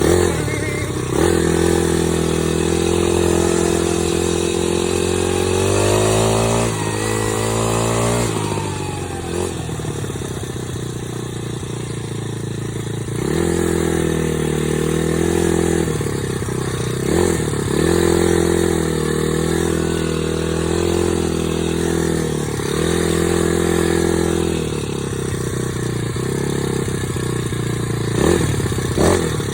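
Dirt bike engine running while being ridden, its note rising and falling with the throttle. There is a long climb and sweep in pitch early on, then a steadier run broken several times by short drops and pick-ups in revs.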